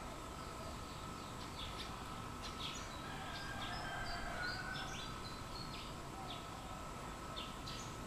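Scattered short, high-pitched chirps of small birds over a steady outdoor background noise, the chirps coming thickest around the middle.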